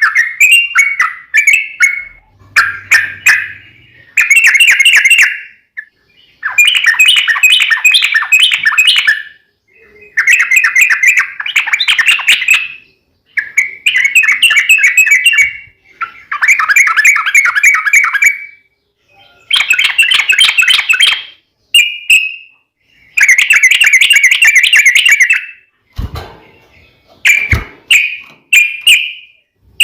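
Yellow-vented bulbul (trucukan) singing loud, rapid chattering phrases in repeated bouts of two to three seconds with short pauses between. This is the bird's long, fast 'fighting' song. Two brief knocks come a little before the end.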